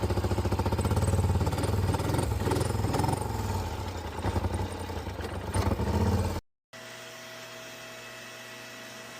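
Polaris Sportsman 850 ATV engine running with a misfire, its level surging and dipping unevenly in the second half. The misfire comes from bad spark plugs and plug wires. The engine sound cuts off abruptly about six seconds in and gives way to a quiet steady hum.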